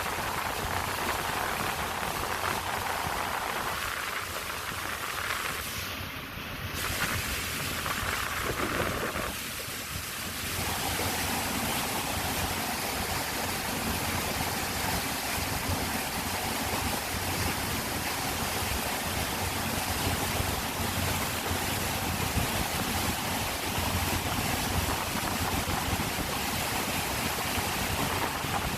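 A tour boat's engine running steadily as a low hum under the rush of water and wind.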